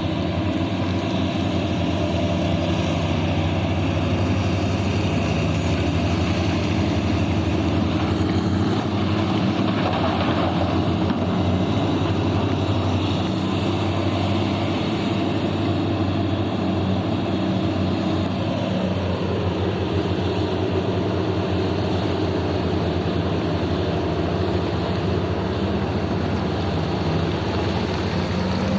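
Heavy diesel engine running steadily with a deep, even drone; about two-thirds of the way through its pitch drops a little.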